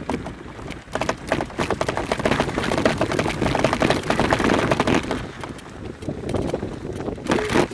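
Mountain bike rolling over a rough, rocky trail: tyres crunching on stones and gravel, with a dense, continuous rattle that is heaviest in the middle stretch.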